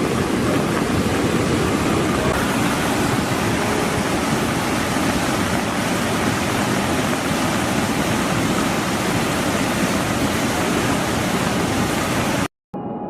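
Swollen floodwater of a river in spate rushing past in a steady, dense torrent. It cuts off suddenly near the end.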